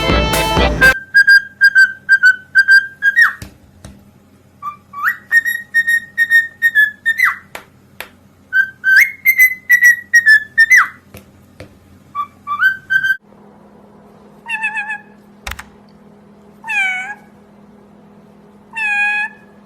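A parrot whistling a tune in clear, repeated high notes and short phrases. After a break, a few short calls that fall in pitch come about two seconds apart.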